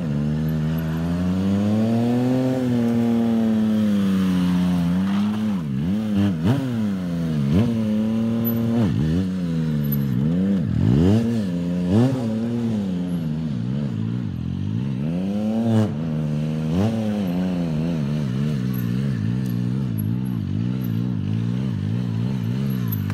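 Yamaha MT-09's three-cylinder engine revving during stunt riding: revs rise and fall slowly at first, then a run of quick sharp throttle blips through the middle, then settle to fairly steady revs near the end.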